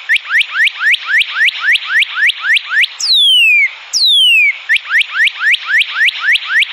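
Northern cardinal song: a quick run of short rising whistles, about four a second, then two long falling whistles about three seconds in, followed by another run of short rising whistles.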